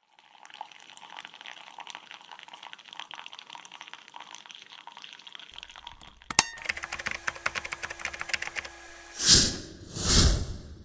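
Intro sound effects: a run of quick, light ticking and clinking, a sharp click about six seconds in, more fast ticking, then two loud whooshes near the end.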